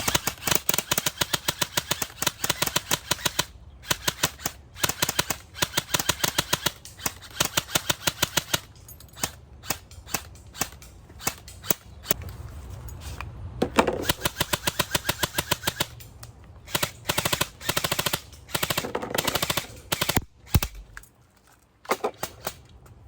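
Airsoft guns firing in long, rapid full-auto bursts, a sharp snap for each shot, with short pauses between bursts. The shooting ends as the guns run out of BBs.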